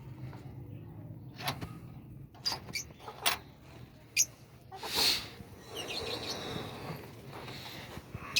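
Budgerigars chirping and chattering, with several sharp clicks and knocks in the first half and a short noisy squawk-like burst about five seconds in.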